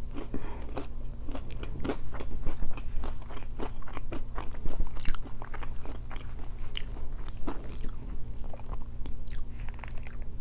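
Close-miked chewing of a crunchy waffle fry: irregular crunches and wet mouth clicks, with some handling noise as a chicken wrap is picked up. A steady low hum runs underneath.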